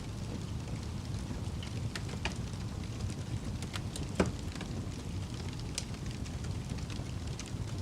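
Wood fire burning in a fireplace: a steady low rumble of flames with scattered sharp crackles and pops, one louder pop about four seconds in.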